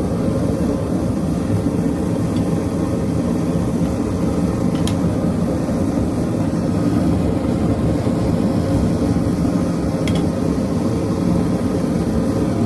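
Propane forge running with a steady low rushing roar, with a couple of faint ticks about five and ten seconds in.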